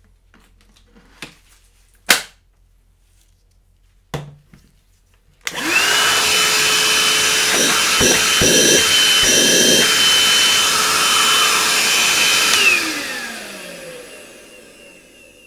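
Einhell PXC TE-VC 18 Li cordless hand-held vacuum cleaner. After a few short clicks and a knock, its motor switches on about five seconds in and runs steadily with a high whine for about seven seconds. It is then switched off and winds down with a falling whine.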